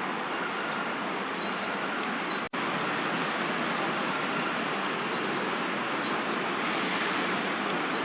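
Steady hum of city traffic, with a bird's short, high, rising chirps repeated roughly once a second over it. The sound cuts out for an instant about two and a half seconds in.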